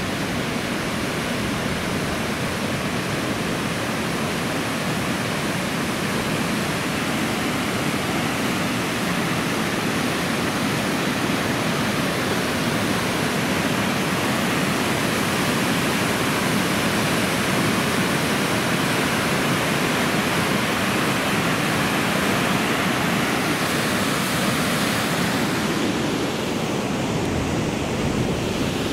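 Waterfall: steady rushing of falling water. The higher hiss dulls briefly near the end.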